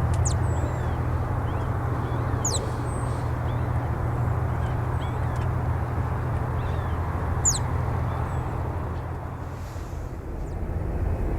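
Jet airliner engines running at a distance, a steady rumble that eases about ten seconds in and then builds again. Over it a bird gives three sharp high chirps, with softer twitters between.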